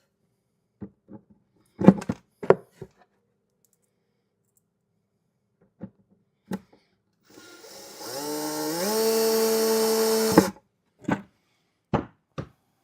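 Cordless screw gun driving a small wood screw into cedar: the motor winds up in pitch about seven seconds in, runs steadily for about two seconds and stops suddenly. Sharp knocks and clicks of handling the screws, gun and wooden box come before and after it.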